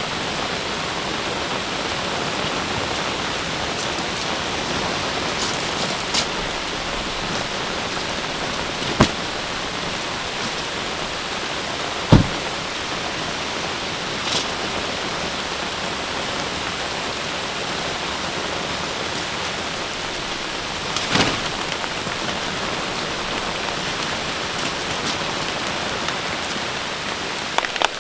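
Heavy rain falling steadily, with a few louder single drops knocking now and then, the loudest about twelve seconds in.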